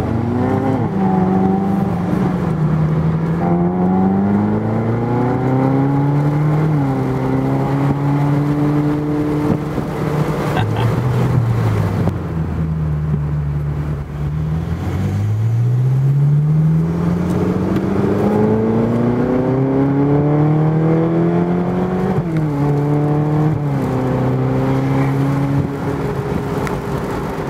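Ferrari California's V8 heard from on board, accelerating hard through the gears: the engine note climbs and drops back at each upshift. In the middle it eases off and runs lower, then pulls in one long rising climb of about seven seconds before two quick upshifts.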